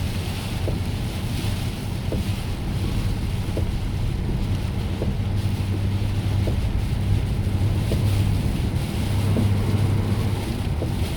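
Car driving on a wet highway in the rain: a steady low engine and road drone under the hiss of tyres on wet pavement and rain. A faint tick comes about every second and a half.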